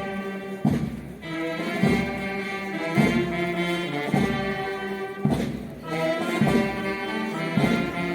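Brass band music, a slow march with sustained brass notes over a drum beat that strikes about once a second.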